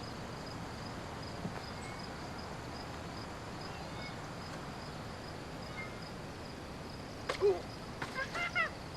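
Outdoor background hiss with an insect chirping in a steady, even, high-pitched pulse. About seven seconds in come a few short, high, pitch-bending calls.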